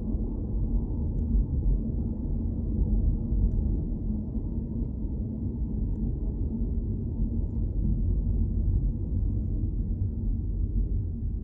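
Steady low rumble of a car driving: road and engine noise with a faint, even hum.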